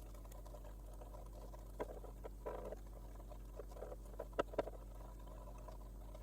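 A few irregular light taps and clicks over a steady low electrical hum.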